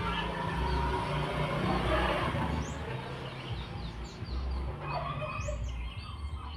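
A bird chirping a few short, quick calls over a steady rushing noise and a low hum.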